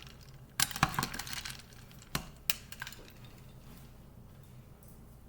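Ice cubes clinking into a glass: a handful of sharp clinks, a few about half a second to a second in and a few more between two and three seconds in.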